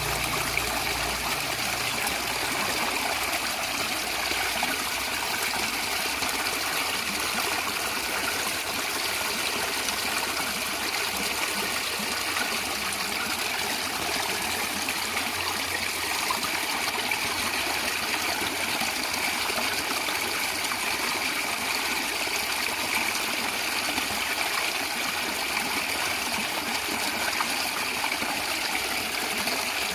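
Natural stream water gurgling and trickling, a steady, even flow.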